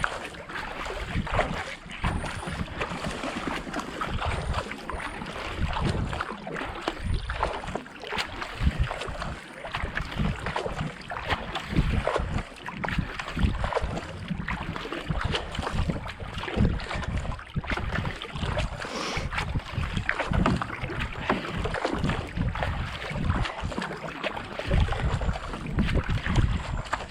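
Racing kayak being paddled hard: repeated paddle-blade strokes splashing in and out of the water, with wind buffeting the camera microphone.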